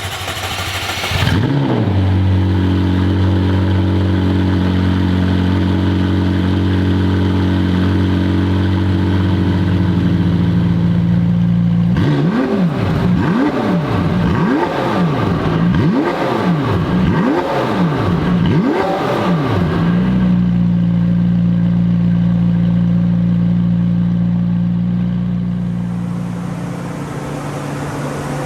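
McLaren 720S twin-turbo V8 exhaust: the engine flares about a second in and holds a steady fast idle, then is revved sharply about six times in quick succession before settling back to a steady idle that fades near the end.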